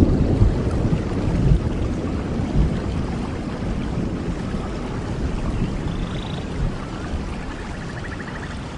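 Steady rain falling, with a deep low rumble that is loudest at the start and slowly dies away. A few faint high chirps come in near the end.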